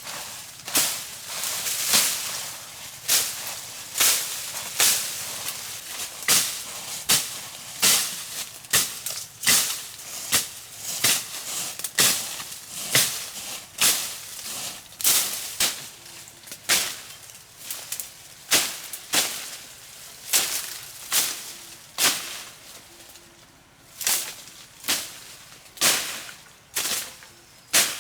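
Repeated sharp chopping strikes, about one to two a second and unevenly spaced: a blade cutting into bamboo.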